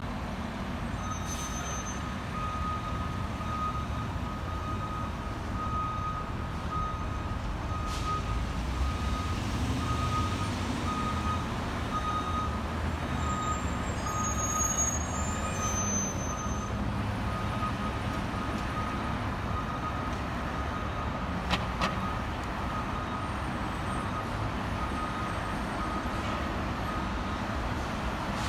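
Fire engine's diesel engine running while its back-up alarm beeps steadily, about three beeps every two seconds, as the truck reverses.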